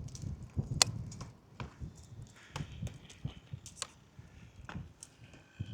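Footsteps and handling noises: irregular light knocks, clicks and scuffs, the sharpest a single click just under a second in.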